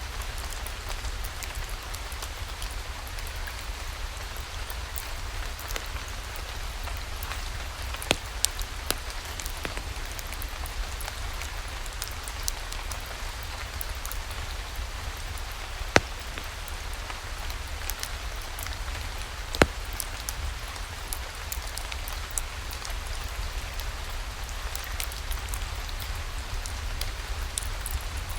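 Steady rainfall with a low rumble beneath it, broken by a few sharp pops or crackles, the loudest about 8, 16 and 20 seconds in.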